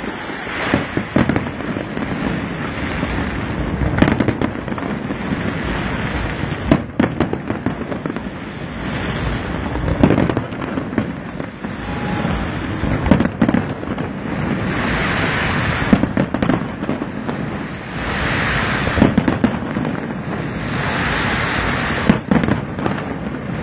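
Aerial fireworks display: irregular loud bangs from bursting shells, sometimes several in quick succession, over a continuous crackling hiss that swells and fades.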